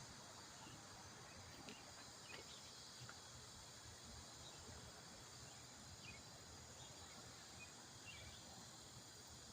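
Near silence: faint steady background hiss with a few faint, brief high chirps scattered through it.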